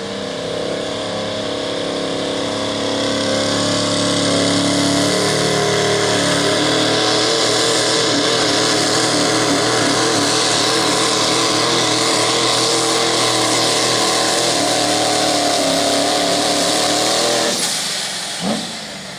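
2001 GMC pickup's Duramax V8 turbodiesel running flat out under load while pulling the sled, its pitch wavering as the load changes. It drops away near the end, followed by two short, sharp sounds.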